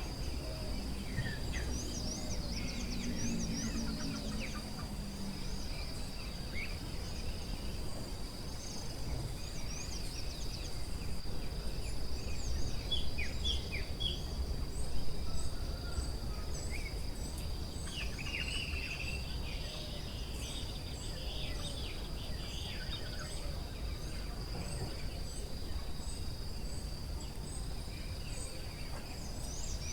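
Forest ambience: a steady high insect drone with assorted short bird chirps and calls over it. In the second half there is a run of evenly repeated high notes, over a low steady background rumble.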